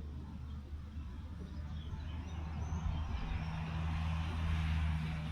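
A motor vehicle's engine running with a steady low hum, its noise swelling and getting louder from about halfway through, as of a vehicle drawing near. A few faint bird chirps early on.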